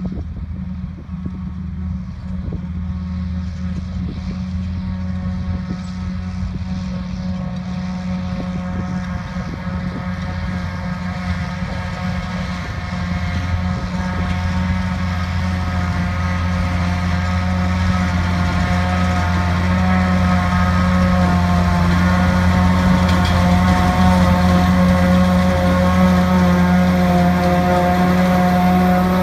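Diesel farm machinery running steadily during grass silage chopping, a deep engine hum under a steady higher whine, growing louder through the second half as the machine comes closer.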